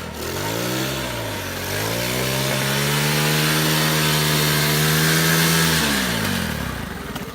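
Pit bike's small single-cylinder engine revving under load on a hill climb: it dips, climbs to high revs and holds them steadily, then drops away and fades near the end.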